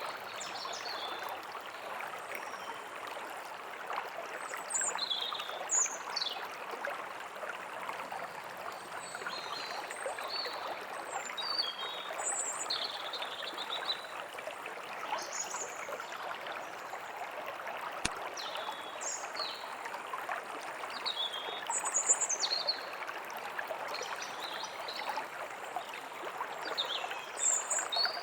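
A small forest stream running and trickling steadily, with songbirds giving short, high chirps and calls on and off over it.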